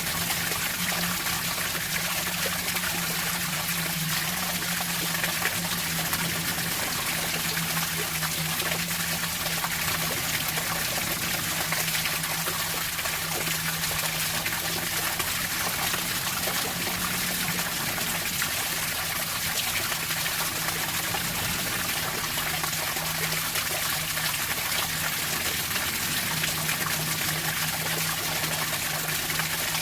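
Running water trickling and splashing steadily, an even rush without breaks.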